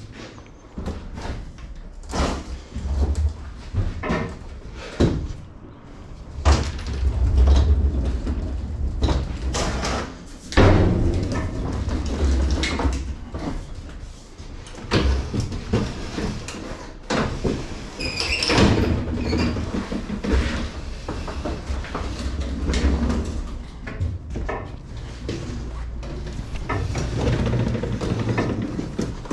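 Irregular knocks, clunks and clatter over a low rumble.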